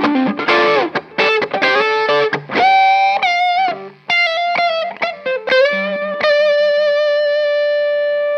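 Epiphone Les Paul Custom electric guitar (1997, Korean-made) playing a lead line through an amp. It plays a run of quick single notes with bends and vibrato, then from about two-thirds in holds one long sustained note.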